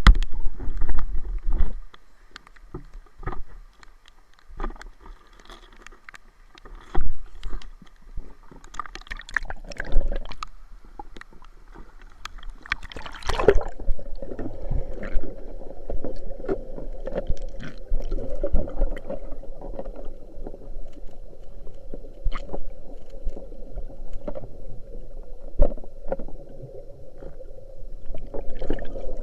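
Water sloshing and gurgling around a swimmer or diver moving in a river, with scattered knocks and clicks. About halfway through, a steady muffled hum sets in under the splashing.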